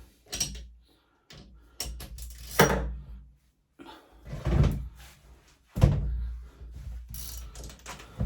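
A string of knocks and clunks, about five of them with irregular gaps, each with a dull low thud: tools and metal engine parts being handled and set down on the workbench.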